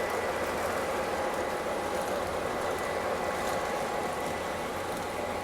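Model trains running on the layout's track: a steady whir and rumble of small electric locomotive motors and wheels on rails, with a faint steady motor whine.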